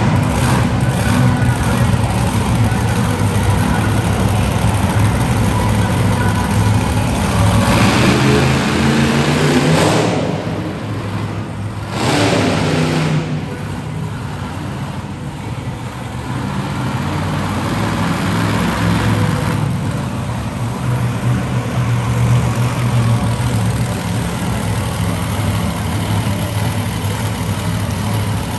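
Monster truck engine running loud, with hard revs: two sharp climbs in pitch about eight and twelve seconds in, each dropping back to a lower steady run.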